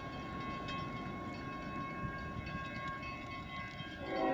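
Train rumble with a steady high-pitched whine. About four seconds in, a locomotive horn starts sounding a chord of several notes and the level rises.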